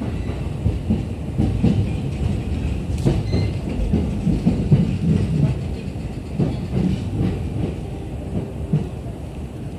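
JR East E231-series electric commuter train running, heard from inside the car: a steady low rumble with irregular knocks and clatter from the wheels on the track, getting quieter near the end.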